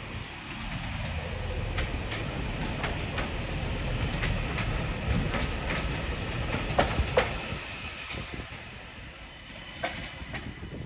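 Northern multiple-unit passenger train passing, a rumble that builds and then eases, with its wheels clicking over the track joints. Two sharp clacks close together about seven seconds in are the loudest sounds.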